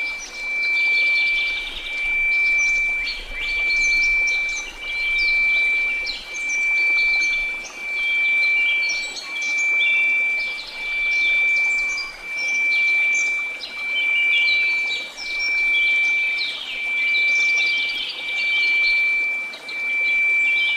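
A steady 2334 Hz pure tone that swells and fades about every two seconds, over a faint hiss, with birds chirping throughout.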